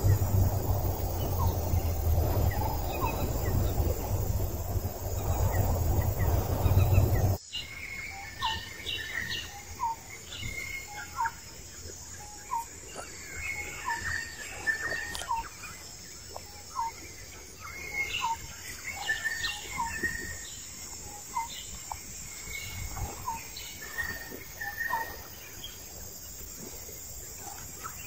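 Birds chirping in short, repeated calls. For the first seven seconds a loud low rumble lies under them, then stops abruptly, leaving the chirps over a quieter background.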